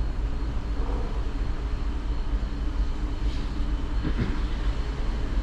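Steady low rumble with a constant hum above it: the background drone of a cruise ship's machinery and ventilation at sea.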